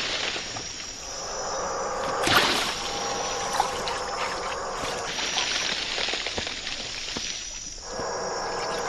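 Night-time pond ambience with running, trickling water, and a brief splash about two seconds in.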